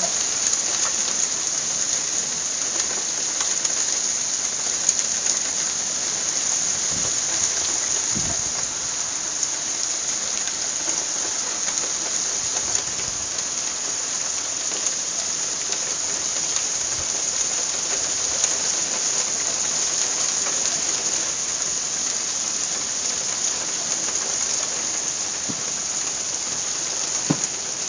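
Rain falling steadily: an even hiss of drops on surfaces that keeps a constant level throughout.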